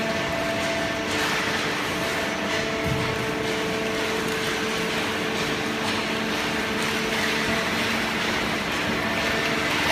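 Hydraulic baling press for scrap paper and cardboard running: a steady mechanical noise with a hum.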